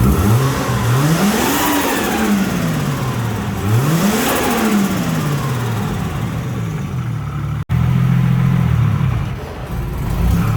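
Turbocharged RB30ET straight-six revved twice, each rev climbing and falling back over about three seconds, then idling steadily.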